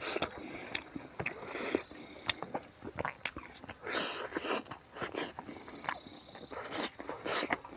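Close-up eating sounds of a man chewing rice and smoked pork by hand: wet smacks, clicks and crunches coming irregularly, several to the second at times. A steady high insect drone runs behind them.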